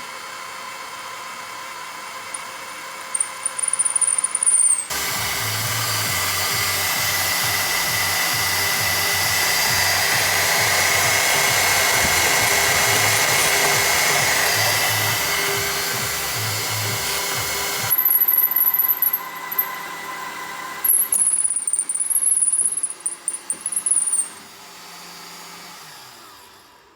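Power drill running, with one long continuous stretch in the middle and shorter runs before and after; abrupt changes suggest cuts between separate drilling takes.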